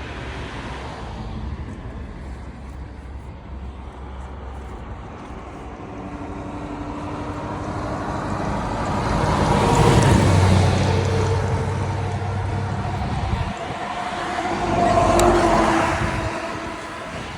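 Yamaha R25/R3 parallel-twin sport bike with an SC Project aftermarket exhaust, running past. Its sound swells to a loud peak about ten seconds in and fades, then swells again to a second peak around fifteen seconds.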